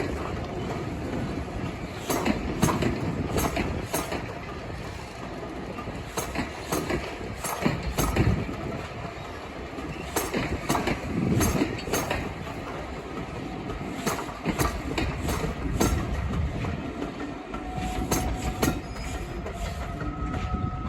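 Train running at speed behind Class 37 diesel locomotives: wheels clacking over rail joints in quick groups every second or so, over a steady rumble.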